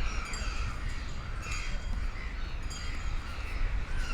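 Crows cawing, a harsh call repeated about three times roughly a second and a half apart, over a steady low rumble.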